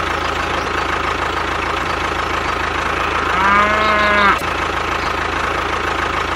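A small engine running steadily. About halfway through, a cow moos once for about a second.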